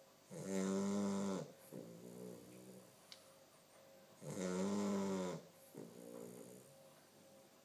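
Two-month-old chow chow puppy snoring in its sleep: two loud, buzzing snores about four seconds apart, each followed by a softer one.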